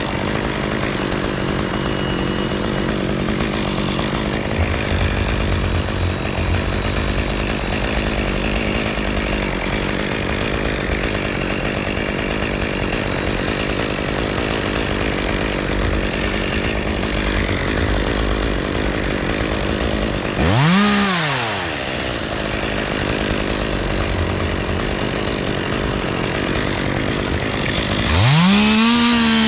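Gas chainsaw running steadily, revved up and back down twice: once about 21 seconds in and again near the end.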